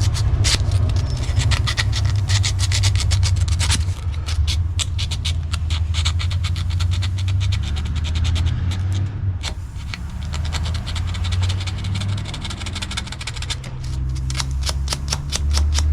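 Electric power tool running against sheet metal, abrading paint off the car body, with a steady motor hum and a rapid scratching. The motor slows and loses level partway through under load, then picks up again near the end.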